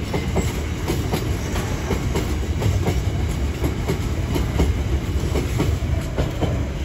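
A train running past close by: wheels clacking over rail joints in an uneven run of clicks, over a steady low rumble.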